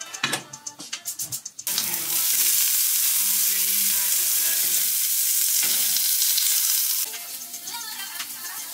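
Loud sizzling of sliced onions frying in hot oil in a frying pan, starting suddenly about two seconds in and cutting off abruptly about five seconds later. Background music with a beat plays before and after it.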